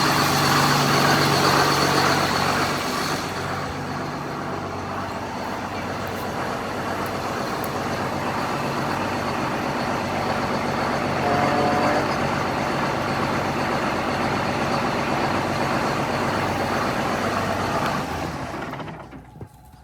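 Allis-Chalmers 8070 tractor's six-cylinder diesel engine running steadily, louder in the first few seconds. The sound falls away near the end.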